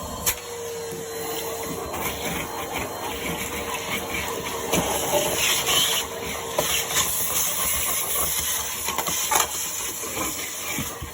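Numatic Henry vacuum cleaner running with its crevice tool, a steady rushing hiss of suction with scattered clicks and scrapes from the nozzle and debris.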